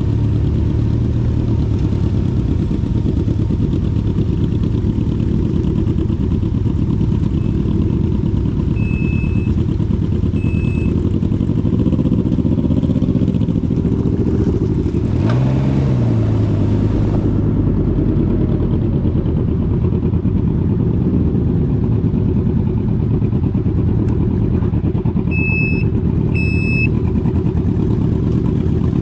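Can-Am Ryker 900's three-cylinder engine running at road speed under a heavy low rumble. The engine note dips and climbs again about halfway through, and two short high beeps sound near the end.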